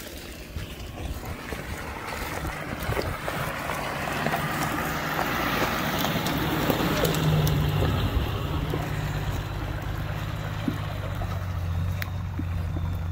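A motor vehicle's engine running with a low steady hum, growing louder over the first several seconds and then holding, over a rushing noise.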